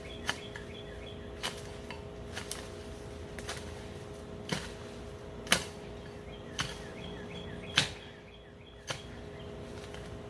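Sharp knocks or strikes at a steady pace of about one a second, over a steady low hum with faint chirping.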